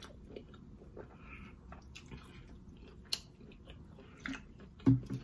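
Close-miked chewing and wet mouth clicks of someone eating lobster meat, with small clicks throughout. A sharp click comes about three seconds in, and a short low thump near the end.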